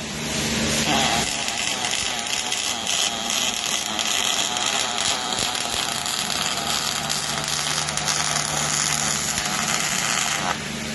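Metalworking shop equipment running: a steady, dense hiss over a low steady hum, with the sound changing character about a second in and again near the end.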